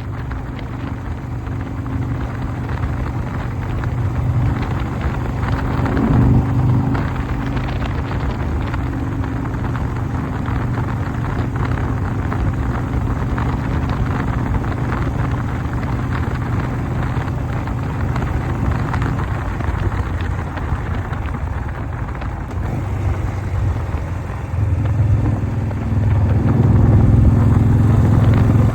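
1988 Harley-Davidson Softail's 1340 Evolution V-twin running on a ride. It gets louder about six seconds in and again near the end as the throttle opens.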